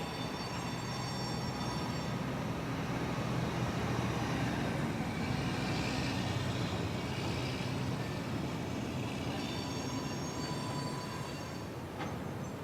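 Freight train rolling past with a steady rumble of wheels on the rails, swelling slightly in the middle. A thin high squeal of the wheels comes in briefly near the start and again near the end.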